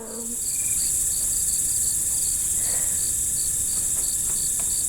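Insect chorus: a steady, loud high-pitched drone with short chirps repeating two or three times a second over it.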